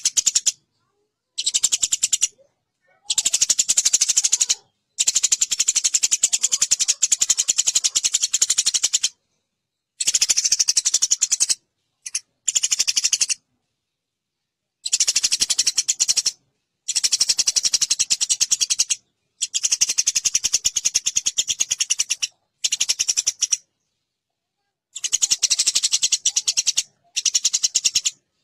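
Eurasian tree sparrows fighting: rapid, harsh chattering chirps packed tightly together, in bursts of one to four seconds separated by short, abrupt silences.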